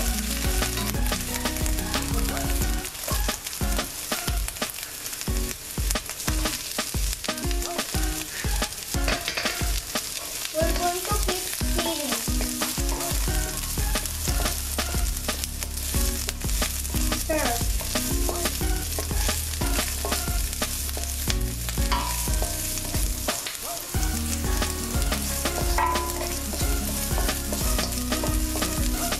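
Chopped onion and ginger-garlic paste sizzling in hot oil in a nonstick pan, stirred and scraped continuously with a wooden spatula.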